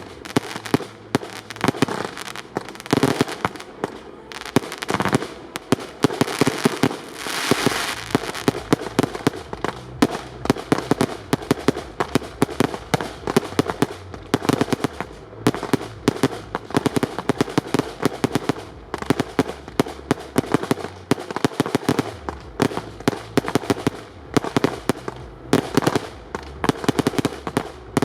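Fireworks display in dense, continuous fire: many sharp bangs and launch reports each second, overlapping throughout.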